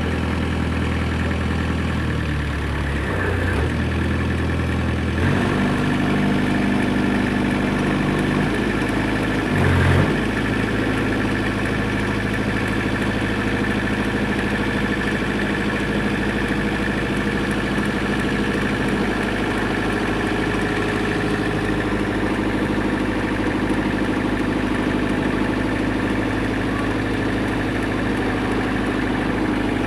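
Yanmar engine running at idle. Its speed changes in steps in the first few seconds and picks up briefly about ten seconds in, then it settles into steady idling.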